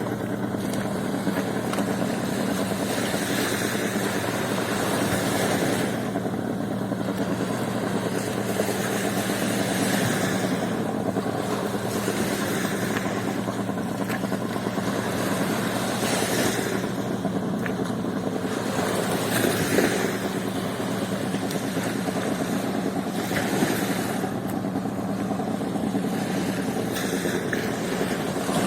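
Sea waves washing up on a beach, the rush swelling and easing every few seconds, over a steady engine hum.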